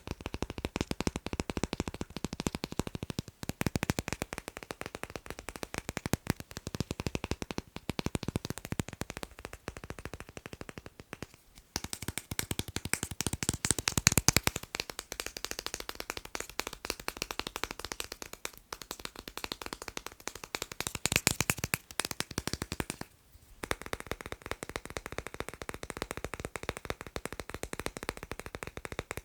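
Fast tapping on magnets: a dense run of small hard clicks. The clicks break off briefly about 3, 11 and 23 seconds in, and are loudest around 14 seconds.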